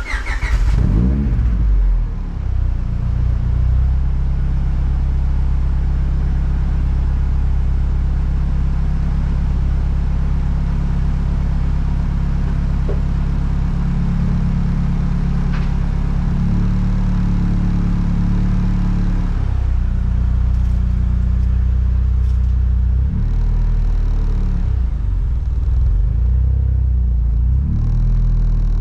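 Supercharged 2001 Honda Prelude four-cylinder engine cold-started through a custom 3-inch exhaust with a Greddy muffler: it cranks and catches at once with a short rising sweep, then runs at a steady cold idle. The idle note shifts a few times about halfway through.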